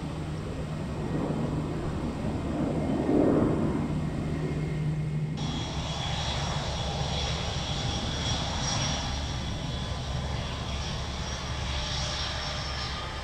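Jet airliner engines running outdoors. About five seconds in, the sound changes abruptly to a steady, high turbine whine over a low rumble.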